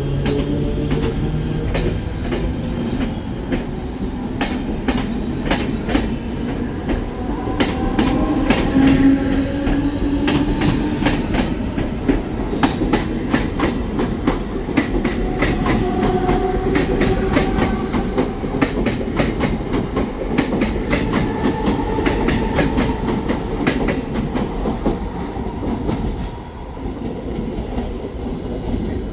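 A train running past on the rails, its wheels clattering rapidly and regularly over the rail joints above a steady rumble, with faint wheel squeal. The clatter stops and the sound drops off about 26 seconds in.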